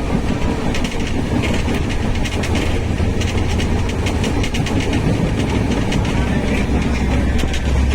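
Train running through a railway junction: a steady low rumble with rapid, irregular clicking of wheels over rail joints and points.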